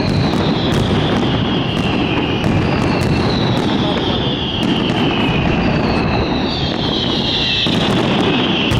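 Fireworks display in full barrage: a dense, unbroken run of bangs and crackle, with several long whistles that fall slowly in pitch and overlap one another.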